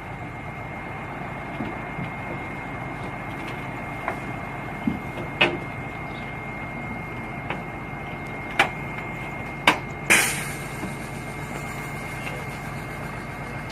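Mini excavator's engine running steadily with a thin high whine, broken by several sharp knocks between about four and ten seconds in; the last knock is the loudest and rings on briefly.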